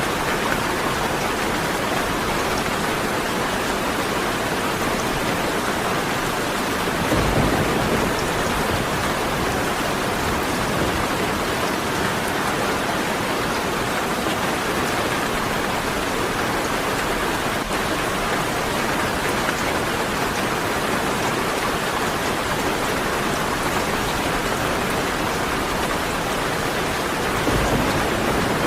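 Steady heavy rain, an even hiss of many drops, with two brief low rumbles, one about seven seconds in and one near the end.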